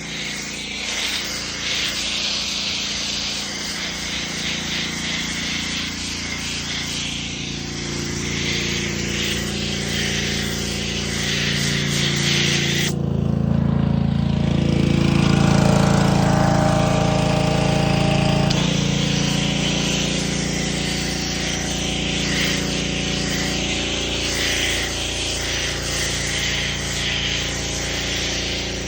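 A motor-driven machine running steadily with a hiss over a low hum. About halfway through the hiss stops abruptly and a louder, deeper humming tone takes over for a few seconds before the hiss comes back.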